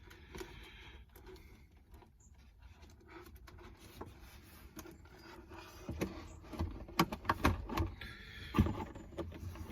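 Handling noises of an RC car body and action camera being fitted together: faint rustling and small clicks, then a run of sharper, louder knocks and clicks from about six seconds in.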